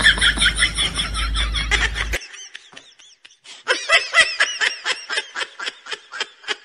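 High-pitched giggling laughter, a quick run of repeated ha-ha pulses. It breaks off about two seconds in and starts again, somewhat slower and quieter, a second and a half later.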